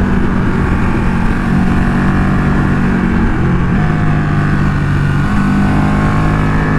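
Twin-cylinder motorcycle engine under way on the road, with wind rushing over the helmet microphone. The engine note steps down about halfway through and climbs again near the end as the bike accelerates.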